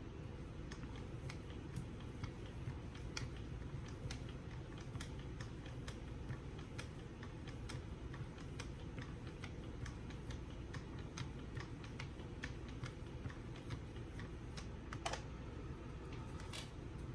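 Strops on a Wicked Edge guided sharpening system being drawn along a kitchen knife's edge, giving light, irregular ticks and strokes, a few a second, over a steady low hum.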